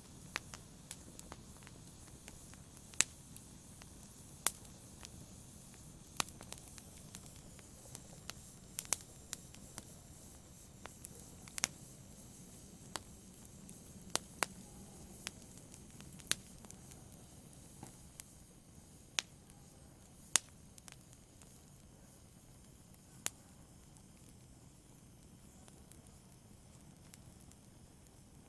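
Fire burning in a fireplace: a low, steady rush of flames with sharp, irregular crackles and pops, which grow sparser near the end.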